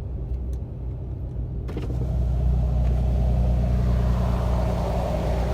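Ram 2500's Cummins turbo-diesel inline-six running, heard from the cab. About 1.7 seconds in, a window is lowered and the engine, exhaust and road noise from outside grows steadily louder.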